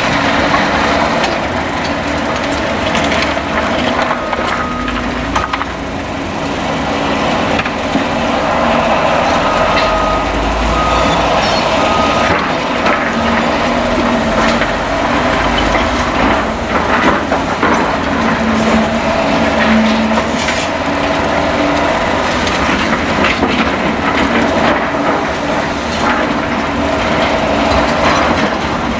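Caterpillar excavators at work on demolition: diesel engines running steadily under the constant clanking and crunching of breaking rubble and debris, with brief higher whines from the machines now and then.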